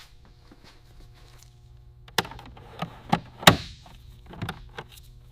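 A few separate sharp knocks and clunks, starting about two seconds in, the loudest about three and a half seconds in with a short ring after it, over a faint low hum.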